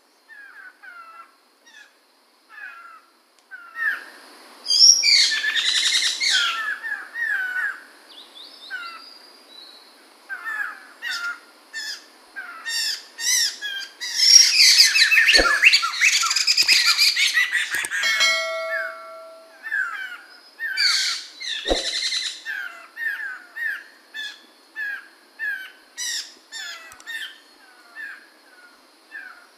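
A poksay mantel (a laughingthrush) calling and singing: a run of short repeated chirps, broken three times by louder, fuller bursts of song. Two brief low knocks sound during the louder bursts.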